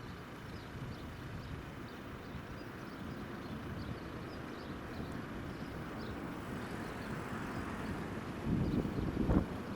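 Jet airliner engines rumbling at a distance, slowly growing louder, with gusts of wind buffeting the microphone near the end.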